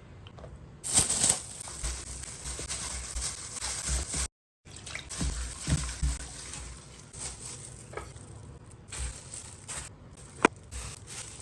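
Water running from a kitchen tap, with scattered knocks and clicks and one sharp click near the end; it breaks off briefly about four seconds in and starts again.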